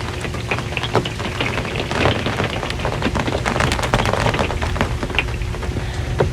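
Rain falling on an RV's metal roof: many irregular drop impacts over a steady low rumble, heavier for a couple of seconds in the middle.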